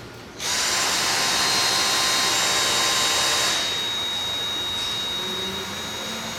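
Dyson V6 and V8 cordless stick vacuums switched on together, both motors running with a loud rushing hiss and a high whine. A few seconds in, the V6 is switched off: the hiss drops, leaving the quieter V8 running steadily with its high whine.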